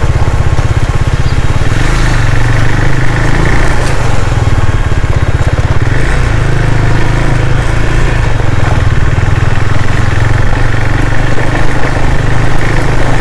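KTM Duke 390's single-cylinder engine running steadily while riding, heard as a constant low rumble.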